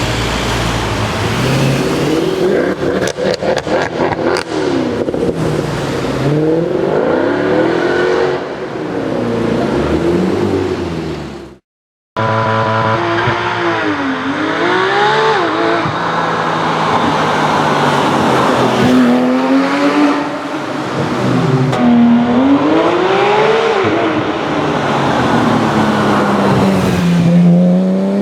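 Mercedes-AMG C63's V8 accelerating hard and revving, its pitch climbing and dropping again and again as it goes up through the gears, with a rapid burst of crackling pops about three to four seconds in. The sound cuts out for half a second around the middle, then more hard acceleration follows.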